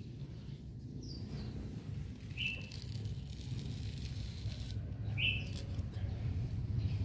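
Three short bird chirps, spaced a second or more apart, over a low steady rumble. A thin high tone comes in near the end.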